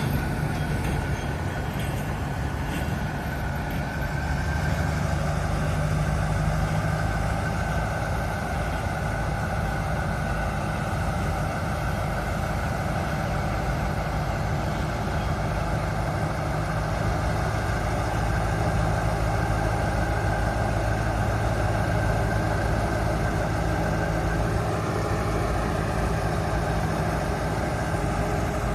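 Diesel locomotive engine of a Thai passenger train running steadily as the train sets off, a continuous low hum with a higher whine above it.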